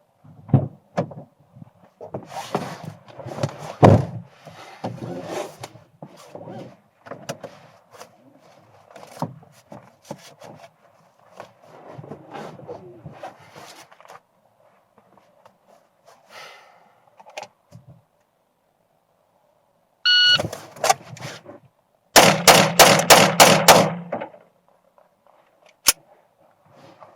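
Knocks and rustling of handling, then a shot timer's beep, a few knocks, and about two seconds later six rapid pistol shots in a string lasting under two seconds.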